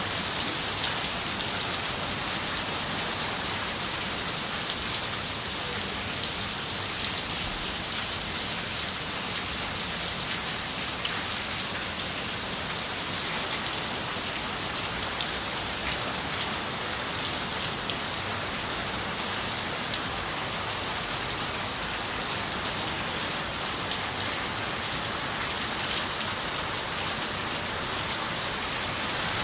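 Steady rain pattering on a window, an even hiss with scattered sharper drop ticks.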